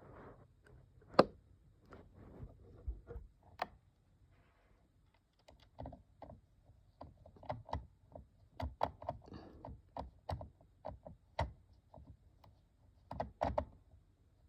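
Plastic parts of a toy aquarium being handled and screwed back together: irregular clicks and knocks, one sharp louder click about a second in, and busier clicking from about halfway on.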